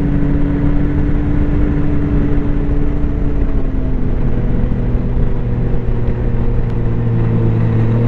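Snowmobile engine running at a steady cruising speed over a continuous noisy rush; its pitch eases down slightly about halfway through and starts climbing again at the very end.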